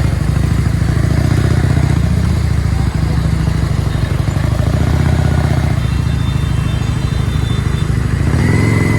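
Motorcycle engine running steadily during a ride, with road and traffic noise. A steady, higher-pitched tone joins near the end.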